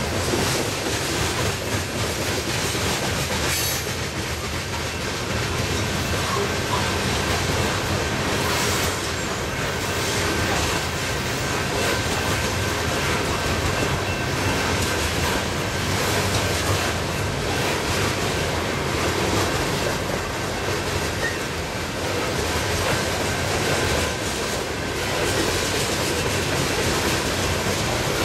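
Coal hopper cars of a freight train rolling past close by: a steady noise of steel wheels on rail and the rattle of the cars.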